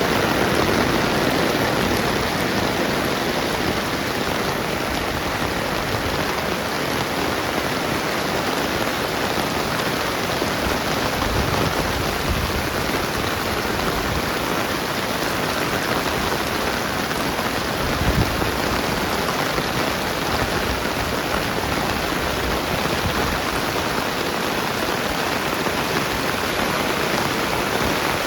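Steady rain falling, an even hiss of drops on the ground and surfaces, with a single dull thump about eighteen seconds in.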